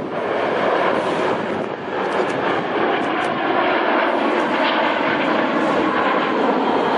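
Steady, loud engine noise from L-39C Albatros jet trainers, powered by Ivchenko AI-25TL turbofans, flying overhead in an aerobatic display.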